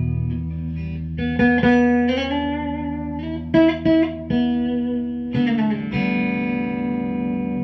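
Guitar music: held, ringing notes, with a note bent upward about two seconds in and a few sharply plucked notes near the middle.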